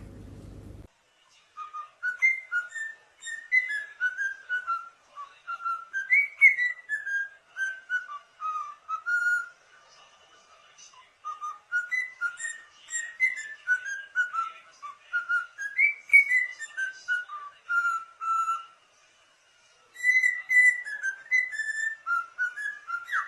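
Parrot whistling a tune: a melody of short, clear notes stepping up and down, in three phrases with brief pauses about ten and nineteen seconds in.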